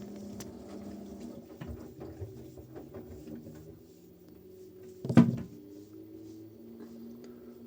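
A single loud knock about five seconds in, with small clicks and a low steady hum around it.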